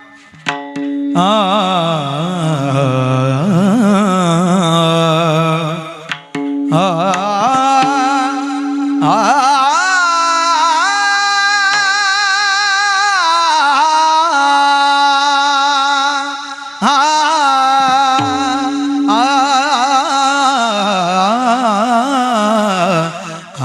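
A male kirtan singer sings a Marathi kirtan chal in long, heavily ornamented melismatic phrases over a steady held accompanying note, with brief breaths between phrases.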